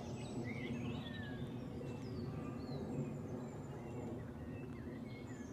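Birds chirping: several short, gliding calls over steady low background noise.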